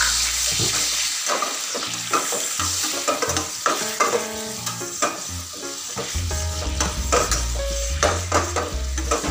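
Butter and lemon juice sauce sizzling in a metal frying pan while a slotted spatula stirs it, with many quick scrapes and taps of the spatula against the pan.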